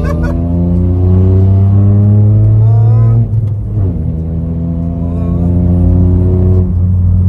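Car engine accelerating hard, its pitch climbing steadily, then dipping briefly about three seconds in at a gear change and climbing again before easing off near the end.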